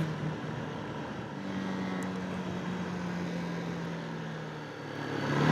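Zontes 125 motorcycle engine running at a steady pace, a steady low hum that grows louder near the end.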